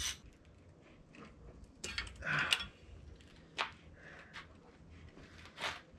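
A few scattered metallic clicks and clinks of hand tools and parts being handled during an engine teardown, with a short clattering cluster about two seconds in.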